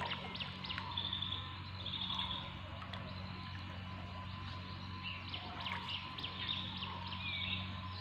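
Riverside birds chirping and trilling in quick runs of short high notes, over a steady low hum.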